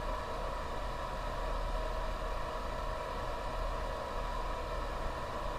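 Steady background hum and hiss, like a fan or air-conditioning unit running, with a faint steady high tone.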